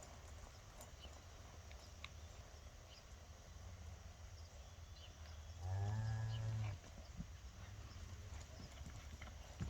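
A cow moos once, a single low call about a second long, around six seconds in, over faint low background rumble.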